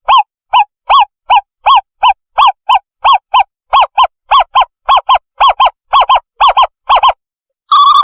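Owlet call played as a decoy lure: short, loud, clear hooting notes, about three a second and speeding up slightly. The notes break off about seven seconds in, and a faster run of notes starts near the end.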